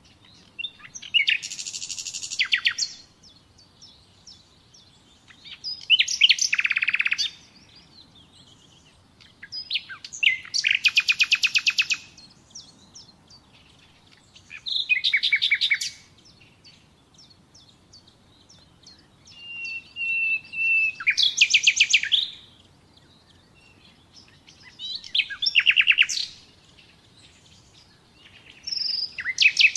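Common nightingale singing: short song phrases every four or five seconds, each a fast run of repeated notes, one of them opening with a long steady whistle.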